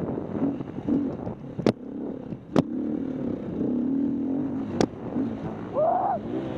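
Dirt bike engine running with its pitch rising and falling as the throttle opens and closes. Three sharp clicks or knocks cut through it, and a short rising-then-falling whine comes near the end.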